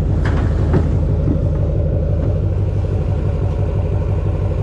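Duramax turbodiesel pickup engine running steadily under way, a low, even, rapidly pulsing throb, with a couple of faint ticks in the first second.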